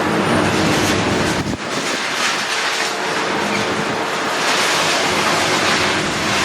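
Heavy demolition machinery working: an engine hum under a steady, loud rattling noise, with a short lull about one and a half seconds in.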